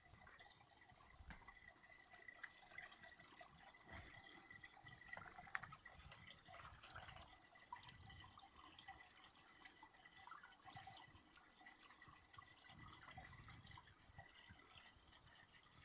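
Faint trickling and dripping of water from a forest spring, with scattered small splashes.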